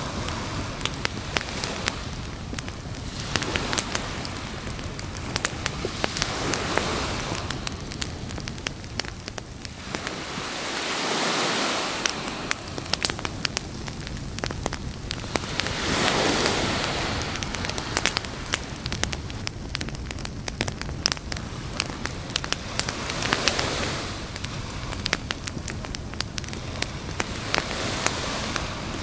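Campfire wood crackling and popping in a dense run of sharp snaps, over a noise wash that swells and fades every several seconds, like surf washing up on a beach.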